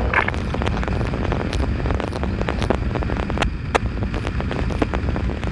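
Motorcycle on the move: steady engine and wind rumble, broken by many sharp, irregular clicks.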